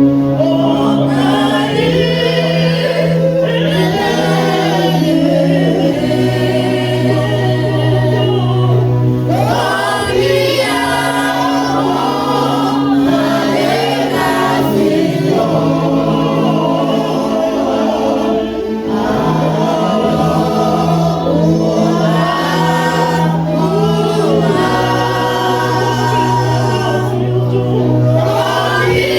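A church choir singing a gospel hymn, several voices together over long held low accompanying notes that change every few seconds.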